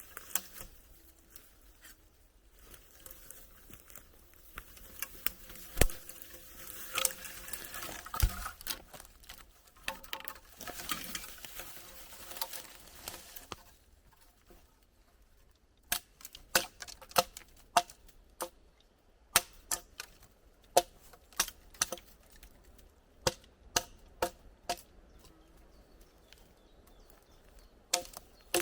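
Rustling and crunching with a few sharp knocks, then from about halfway through a string of sharp clicks or knocks, irregular, one or two a second.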